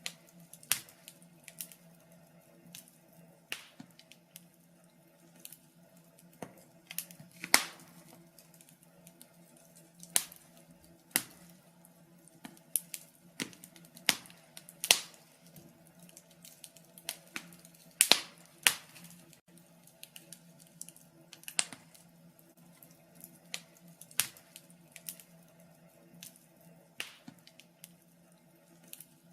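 Wood fire in a fireplace crackling, with irregular sharp pops and snaps, a louder one every second or two, over a faint steady low hum.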